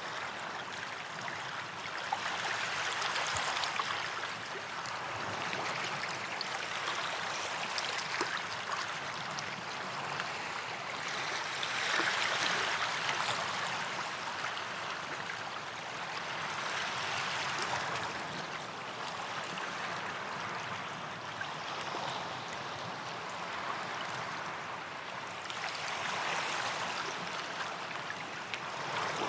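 Small waves washing onto a sandy beach, a hiss of water that swells and fades every four to five seconds.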